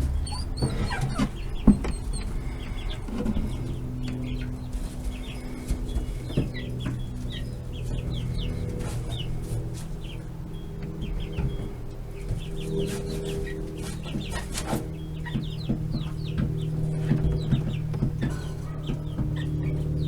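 Young chickens peeping and clucking, many short high chirps throughout, over a steady low hum.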